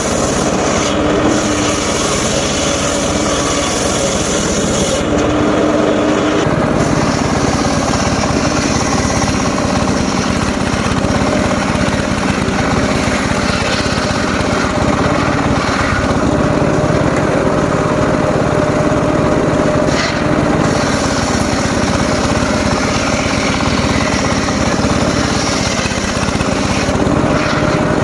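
Engine-driven circular saw running steadily and sawing wood; its note changes about six seconds in.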